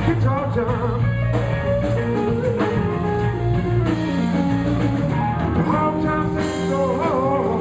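Live blues band playing: electric guitar lead with bent notes over bass guitar and a drum kit. The guitar bends stand out about six to seven seconds in.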